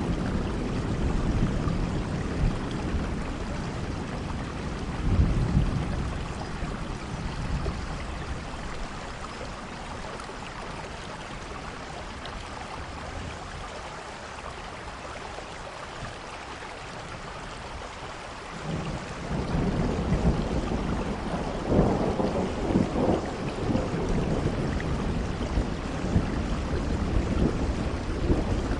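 Steady rainfall hiss with deep rumbling that swells and fades. The rumbling is strong at the start and again about five seconds in, then drops away to a quieter stretch of rain. It returns about two-thirds of the way through and carries on to the end.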